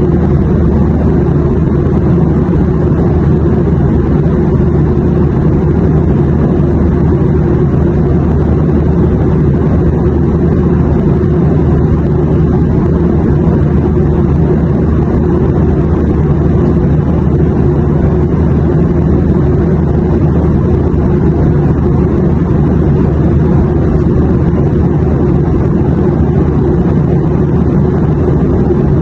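Airliner cabin noise: a steady, deep rumble of engine and airflow drone, heaviest in the low end, with no change in level throughout.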